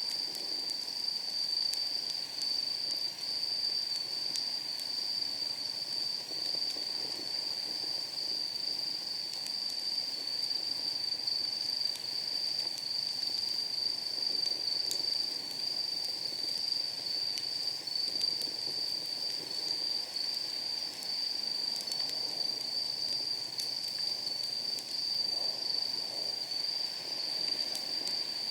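A continuous, high-pitched trill of night insects over a wood fire burning in a steel fire pit, with scattered small crackles and pops from the burning firewood.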